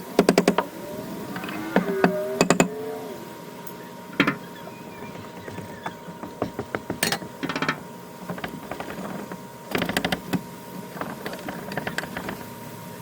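Sped-up wooden deck demolition: quick clusters of sharp knocks and clatters from tools working the boards and posts, with squeaky, creaking pitched sounds about two seconds in.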